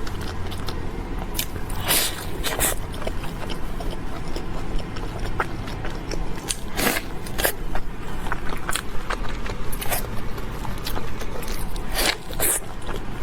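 Close-miked eating: crunchy bites and chewing, an irregular run of crackly crunches with a few louder bites.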